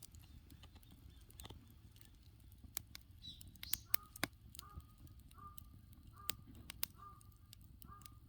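Wood campfire crackling, with sharp pops standing out above a low rumble. From about four seconds in, a bird calls about six times in an evenly spaced series.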